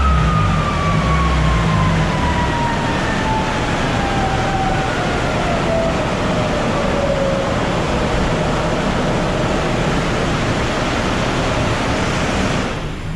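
An EP3 Honda Civic Type R on a rolling-road dyno winding down after a power pull. A loud, steady rush from the spinning rollers and wheels carries a whine that falls slowly in pitch, and the rush drops away near the end.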